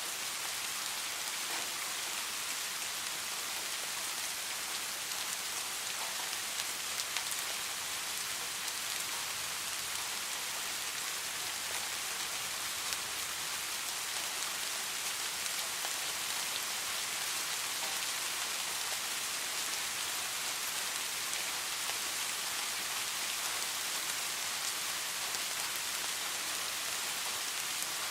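Steady rain falling on a hard surface, a dense hiss with many small drop ticks.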